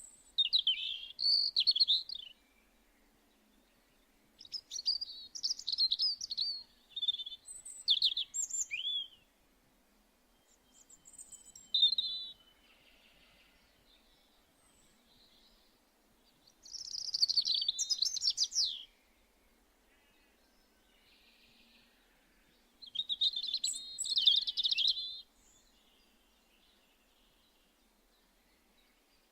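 A small songbird singing phrases of rapid, high, gliding notes, each about two seconds long, with pauses of a few seconds between them.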